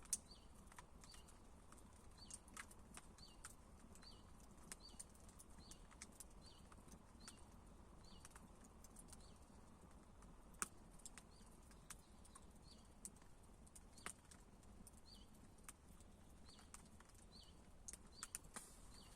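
Campfire wood crackling faintly, with scattered sharp pops, two of them louder: one just after the start and one about halfway through. A faint high chirp repeats about once a second throughout.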